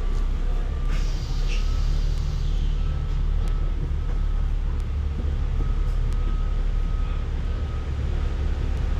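City bus running, heard from inside the cabin: a steady low engine and road rumble with a thin, steady whine above it. A brief rattle comes about a second in.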